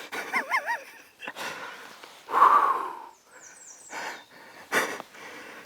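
A man breathing hard in gasps and heavy exhales, typical of a hunter's excitement right after taking a turkey.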